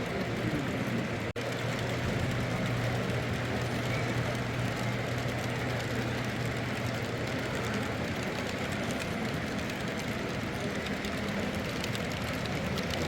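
Model train running on a layout, a steady low hum and rumble with no clear pattern, broken by a momentary dropout about a second in.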